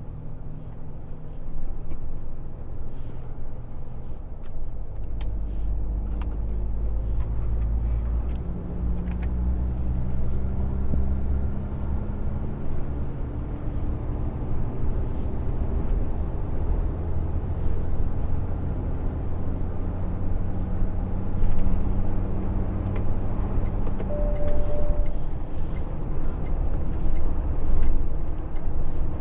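Truck's diesel engine under load, its pitch rising in steps as it accelerates through the gears. A short single beep sounds late on.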